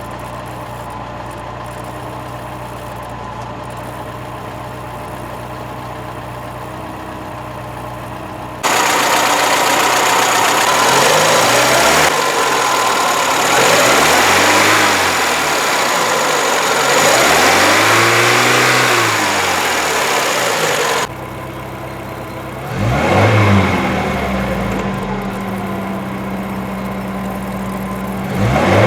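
UZAM 1.7-litre four-cylinder petrol engine idling steadily, then revved up and back down three times, dropping back to idle and given a short blip twice near the end. It runs smoothly, which the owner takes for an engine in ideal condition.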